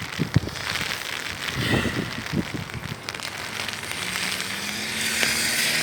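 Steady rain crackling and pattering, with a vehicle's engine hum and tyre hiss on the wet road building in the second half.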